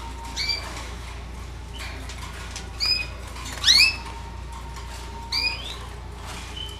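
Pet canaries calling: four short, rising call notes, about half a second, three, almost four and five and a half seconds in.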